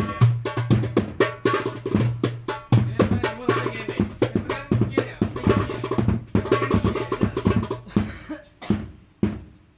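A 9-inch darbuka with a Remo plastic head played in a fast rhythm: deep ringing bass strokes mixed with sharp, bright rim strokes. Near the end the playing thins to a few strokes and stops.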